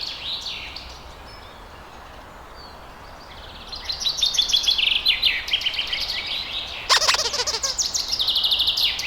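Birds chirping: after a quiet start, a rapid run of high trilled chirps begins about four seconds in and carries on, with a louder harsh call near seven seconds.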